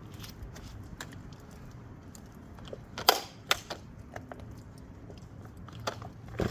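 Clicks and clatter of a Craftsman 46cc chainsaw being handled and readied for a cold start, with two sharp, louder noises about halfway through and smaller ones near the end.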